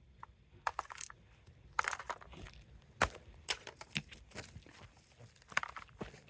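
Plastic casing of an air-conditioner remote control being broken apart by hand: irregular sharp cracks, clicks and crunches, loudest about two and three seconds in.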